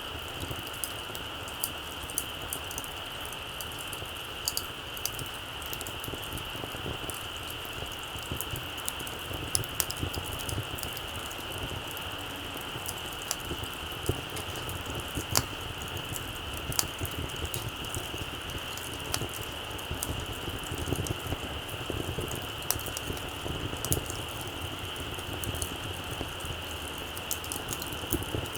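Small wood campfire crackling, with frequent sharp pops and snaps scattered throughout, over a steady high-pitched drone.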